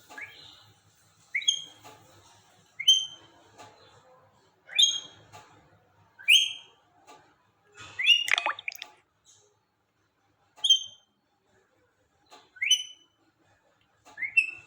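Indian ringneck parakeet giving short, sharp whistled calls, each sweeping quickly upward in pitch, about nine in a row with a second or two between them; the loudest comes just past the middle.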